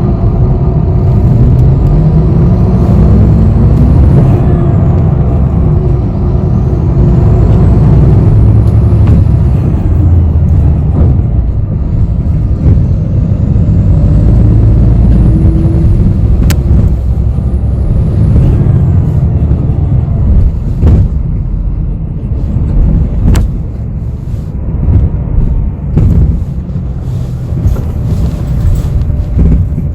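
Inside a city bus in motion: heavy drivetrain and road rumble, with a tone rising in pitch over the first few seconds as the bus speeds up, and a faint high whine that rises and falls several times. Two sharp clicks come about halfway through and again later, and the rumble becomes more uneven in the last third.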